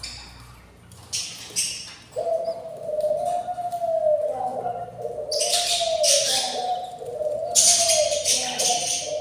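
Budgie nest sounds: harsh, raspy calls come in two long bursts in the second half, typical of hungry budgie chicks begging. From about two seconds in, a continuous low warbling call runs underneath, rising and falling about once a second.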